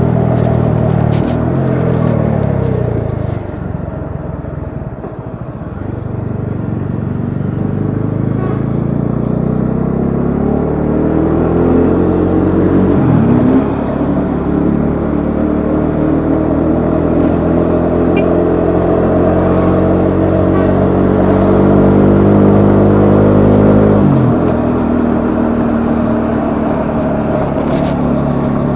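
Bajaj Dominar 400's single-cylinder engine heard from the rider's seat. It slows with the revs falling, eases off, then pulls up through the revs, with upshifts about thirteen and twenty-four seconds in and steady running in between.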